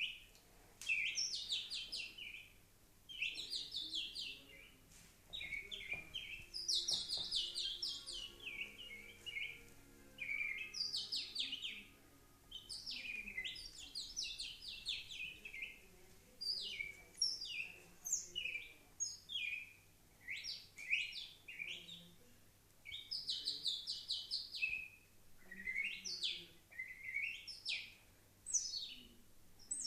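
Nightingale-like song: phrases of rapid whistled trills and sweeping notes, one after another every second or two with short pauses between.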